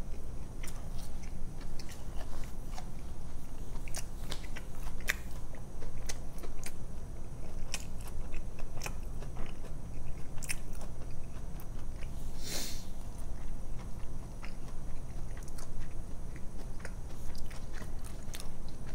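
Close-miked chewing of a mouthful of fried-cod sandwich, with many small wet mouth clicks over a low steady hum. There is one short hiss about two-thirds of the way through.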